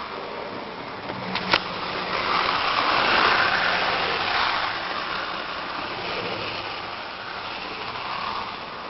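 HO-scale model trains running on the layout track: a steady whirring rumble of small motors and wheels on rail that swells louder about two to five seconds in as a train passes close. A single sharp click about a second and a half in.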